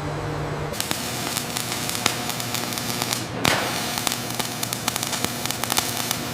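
Factory machinery noise: a steady hum under a dense crackling hiss with many sharp clicks, changing abruptly about a second in, with a brief whoosh about halfway.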